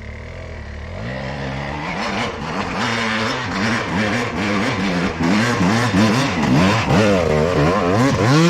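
Two-stroke dirt bike engine revving hard up a steep hill climb, its pitch rising and falling again and again, growing louder as the bike comes closer.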